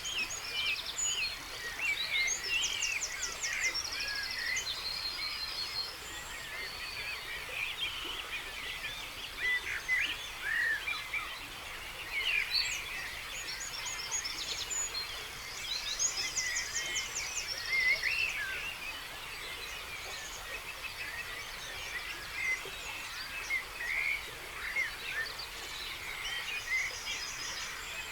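Dawn chorus: many songbirds singing at once, their songs and calls overlapping, with fast high trills standing out a few times.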